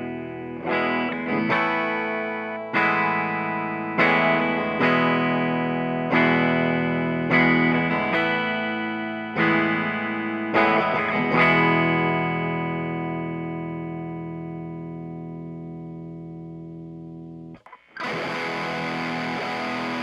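Electric guitar played through a Mooer Black Secret distortion pedal, a Pro Co Rat clone, on a light break-up setting: chords strummed about once a second, the last one left to ring and fade for several seconds. Near the end it switches to a denser, hissier sustained distorted tone.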